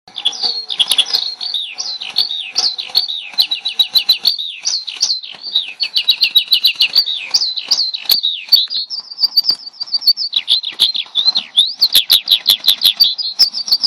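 Recorded bird chirping played from an iPhone speaker: rapid high chirps, many sweeping downward in quick trilled runs, broken by short pauses.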